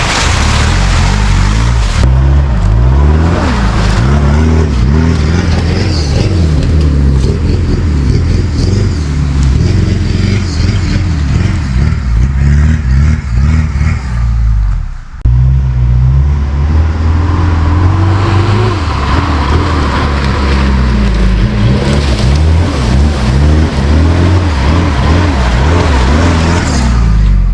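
Off-road vehicle's engine labouring and revving, its pitch rising and falling again and again as it climbs over rough ground. It breaks off sharply about halfway and picks up again.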